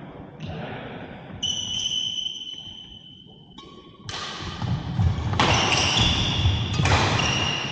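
Badminton play on an indoor court: shoe soles squeaking on the court floor in several held squeals, between sharp hits. The sound grows louder and busier about halfway through.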